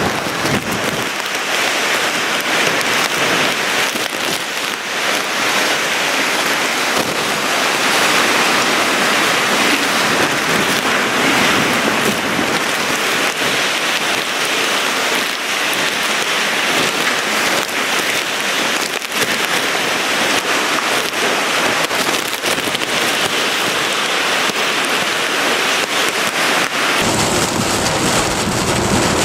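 Heavy rain and wind of a hurricane, a steady loud rushing hiss with no letup; a deeper rumble joins in near the end.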